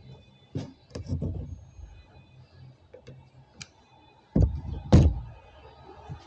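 Heavy thuds against a door, irregularly spaced: a few knocks about half a second to a second and a half in, then two loud bangs around four and a half and five seconds in, the second the loudest.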